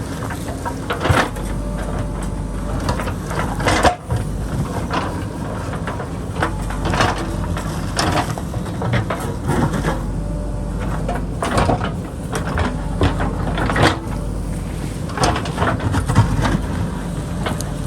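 JCB backhoe loader's diesel engine running steadily under load, with frequent knocks, scrapes and clatters of the bucket digging into rocky hillside soil.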